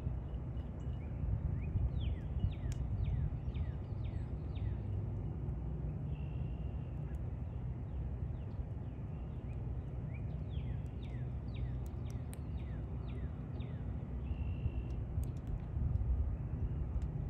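A songbird singing two runs of quick, downslurred whistled notes, about two or three a second, over a steady low wind rumble on the microphone.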